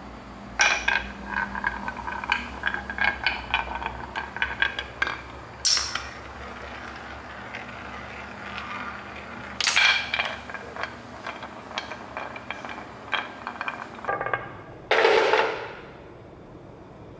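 Marbles clinking and clattering against each other and a hard track in quick runs of sharp clicks with a light ringing, then a louder rushing clatter lasting about a second near the end.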